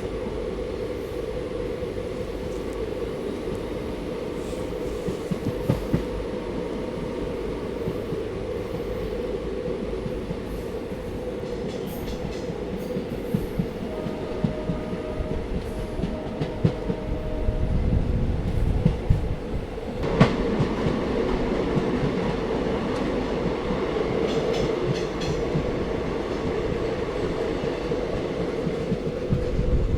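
Train running on rails with a steady rumble and irregular clicking of wheels over rail joints. A short steady tone sounds twice a little before the middle. About two-thirds of the way in a sharp knock comes and the running gets louder.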